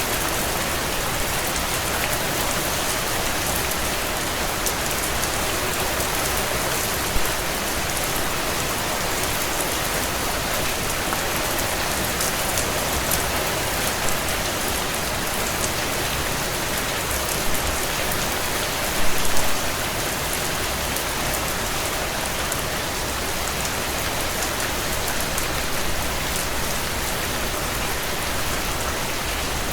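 Heavy rain falling steadily, with the occasional sharp crackle of a burning wood fire; a short flurry of crackles comes about two-thirds of the way through.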